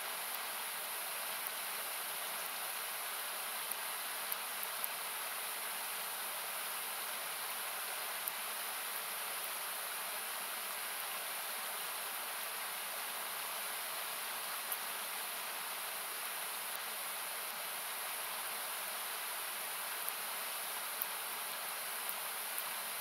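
Steady rushing of a river, equalised so that it sounds like a hiss, with a wood campfire crackling now and then in small sharp pops, about ten of them.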